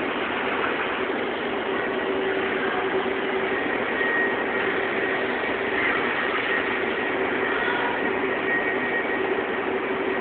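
Automatic fabric spreading machine running: a steady mechanical drone with a constant hum and a fainter high whine that holds throughout.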